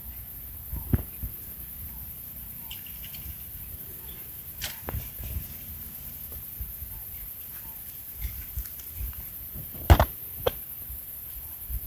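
Irregular snaps and crackles of dry twigs and brush while pushing through dense scrub, with a sharp pair of snaps about ten seconds in.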